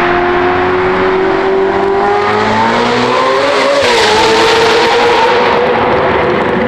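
Ferrari F8 Tributo's twin-turbo V8 with a catless full exhaust accelerating hard, its note climbing steadily. About four seconds in the pitch drops briefly at an upshift, then climbs again.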